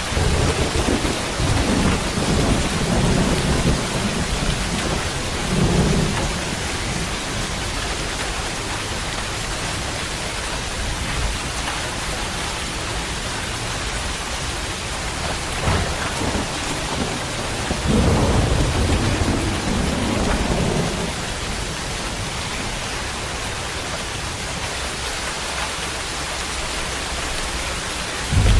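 Steady rain falling, with low thunder rolling in twice: over the first six seconds or so, and again from about eighteen to twenty-one seconds in.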